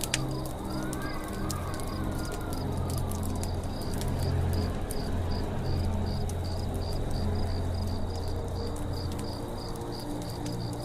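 Campfire crackling with frequent sharp pops, over an insect chirping steadily about twice a second and low held tones. In the first few seconds a bird gives a whistle that rises and falls.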